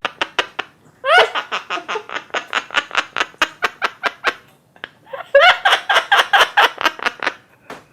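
A parrot imitating laughter: runs of quick, even "ha-ha-ha" pulses, about six a second. There are two long bouts with a short pause between them, each opening on a rising note.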